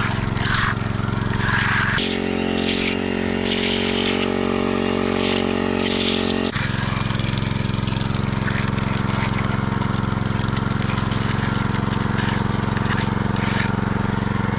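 An engine running at steady speed. Its note changes abruptly about two seconds in and switches back about six and a half seconds in.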